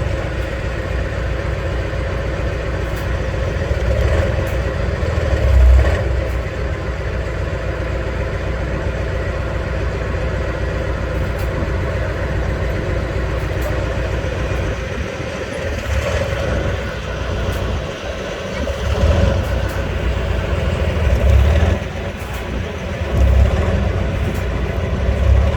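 Heavy off-road trial truck's engine running under load, swelling louder in several short bursts of revving.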